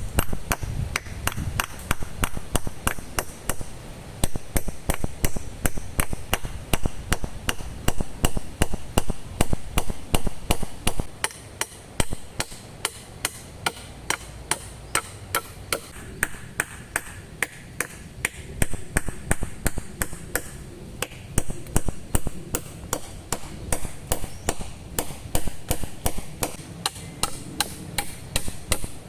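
Wood being chopped with quick, repeated blade strikes, several a second, growing lighter and sparser for a few seconds in the middle before picking up again.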